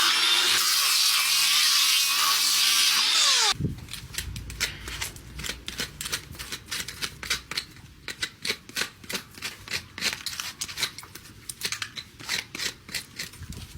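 A power tool working on a horse's hoof runs with a wavering high pitch, then cuts off and winds down about a third of the way in. It is followed by a quick, irregular series of short, sharp cutting or scraping clicks from hand trimming of the hoof.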